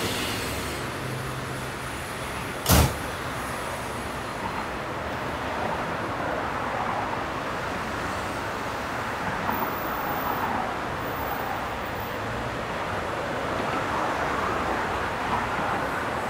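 Steady running noise of an electric commuter train at a station platform, with one sharp knock about three seconds in.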